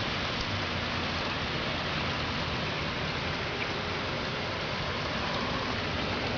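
Steady rain, an even hiss with no thunder or other sudden sounds.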